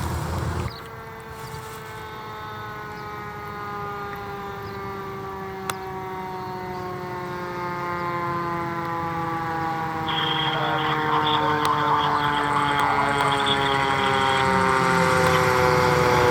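Emergency vehicle's mechanical siren winding down, one steady pitch falling slowly over many seconds, as engine and road noise grow louder. A sharp click comes about six seconds in, and a thin high tone joins for a few seconds about ten seconds in.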